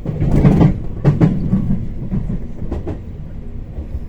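JR Kyushu 813 series electric train running along the track, with a steady low rumble and its wheels clacking over rail joints several times at uneven intervals, heard from inside the car.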